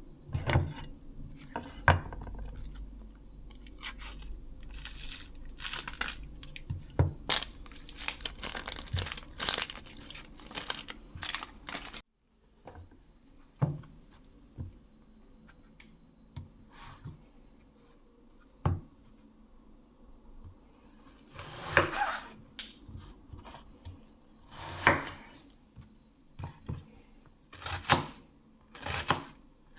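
Kitchen handling sounds: wrapping being torn and crinkled, among sharp clicks and knocks of dishes and utensils. The sound cuts out abruptly about twelve seconds in, and sparser knocks and rustles follow.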